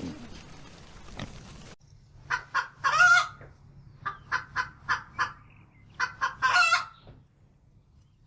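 Rooster crowing in three bursts, each a quick run of short notes; the first and last bursts end in a longer drawn-out note. Before the crowing, a noisier, lower animal sound cuts off abruptly a little under two seconds in.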